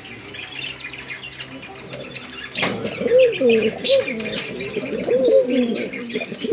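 Pigeons cooing in repeated low, falling calls that start about two and a half seconds in, over small birds chirping throughout.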